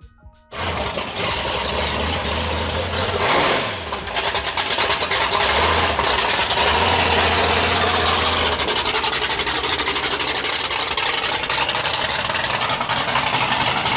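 Loud car engines running at a drag strip, rough and dense with rapid firing pulses. A falling pitch sweep comes about three seconds in.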